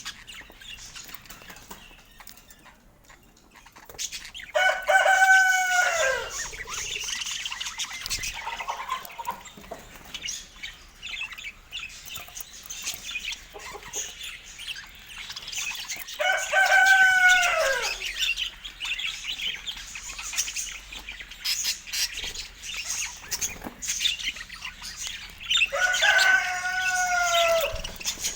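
Birds chattering and chirping, with budgerigar-style high twittering throughout. Three drawn-out lower calls stand out, each falling in pitch at the end: one about four seconds in, one around the middle and one near the end.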